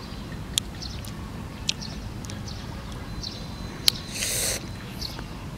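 Wet mouth clicks and lip smacks of a man chewing food, scattered sharp ticks, with a short breathy hiss of about half a second just after a louder click about four seconds in. A steady low wind rumble on the microphone lies underneath.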